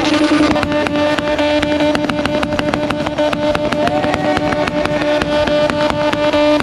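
Rotary-engined burnout truck held at high revs in a burnout, running at a steady pitch and bouncing off the rev limiter with rapid, regular cracks several times a second.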